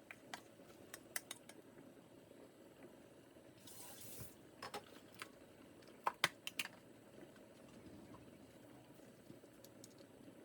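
Small clicks and knocks of kitchen utensils and containers being handled, a few sharp ones in a cluster about six seconds in, with a short hiss like a brief run of water about four seconds in, over a faint steady room hum.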